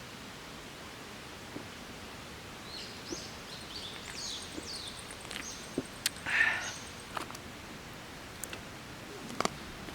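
Steady outdoor hiss with a run of short, high, falling bird chirps about three to five seconds in. A brief noisy scrape comes in the middle, the loudest sound, along with a few sharp clicks.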